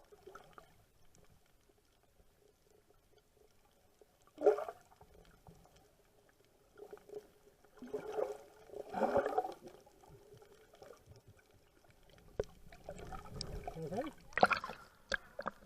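Water sloshing and splashing around the microphone in several bursts, the loudest near the end, over a faint steady tone.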